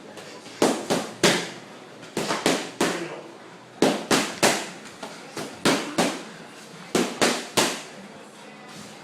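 Punches landing in quick combinations of three, five combinations in a row, each a fast run of sharp smacks.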